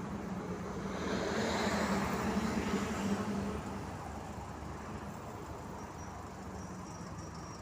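Road traffic noise: a vehicle passing, swelling about a second in and fading after about three seconds over a steady low hum.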